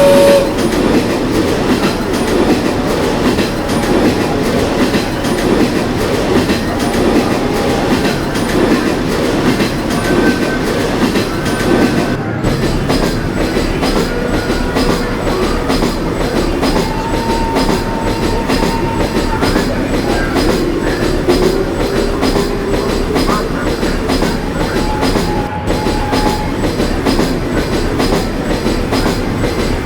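Small ride-on amusement train running along its track: a steady rattling clatter of its wheels and carriages.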